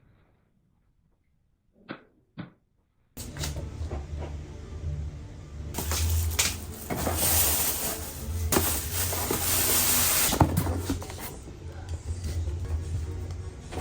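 Household handling sounds: knocks, clatters and a cupboard opening or closing as items are put away, over a steady low hum. They start abruptly about three seconds in, after near silence broken by two soft clicks.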